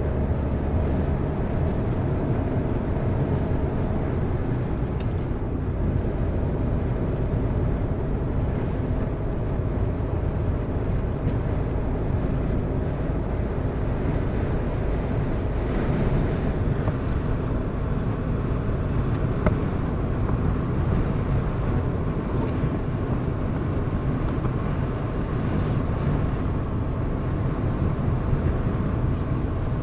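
A car driving on a mountain road: steady engine and tyre noise at an even level, with a few faint clicks.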